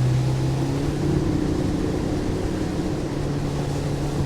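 Motorboat engine running steadily under way, a constant low drone with a rushing noise of water and wind; the engine note wavers slightly about a second in.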